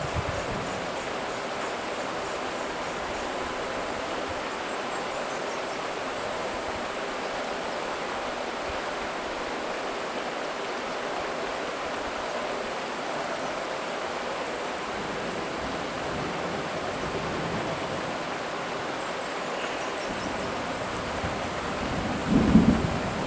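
Steady rain falling on rainforest foliage, an even hiss, with a low thunder rumble rising near the end.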